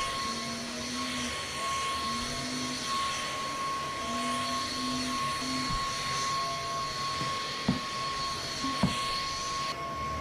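Cordless battery-powered vacuum cleaner running steadily with a high motor whine and hiss, its tone shifting now and then as it picks up debris; two sharp knocks near the end.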